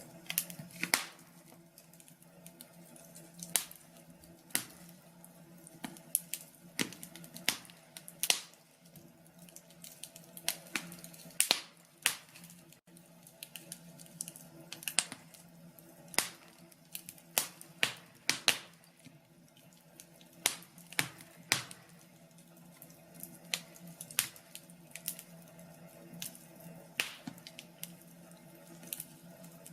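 Wood fire in a fireplace crackling, with irregular sharp pops and snaps, some in quick clusters, over a faint steady low hum.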